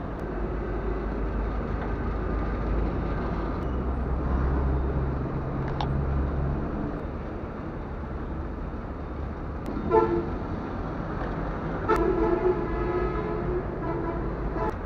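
Road traffic rumbling steadily, with a vehicle horn honking briefly about ten seconds in and again, longer, about two seconds later.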